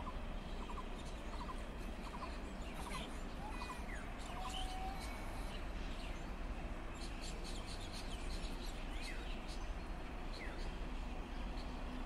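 Small birds chirping and calling: quick paired chirps repeated in the first seconds, then scattered short whistled calls that slide up or down in pitch. Underneath is a steady low rumble of background ambience.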